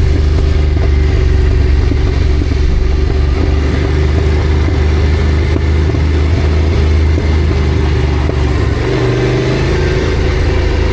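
Yamaha Ténéré adventure motorcycle's engine running steadily while riding, with a low, even engine note; the note changes about eight and a half seconds in and settles back near the end.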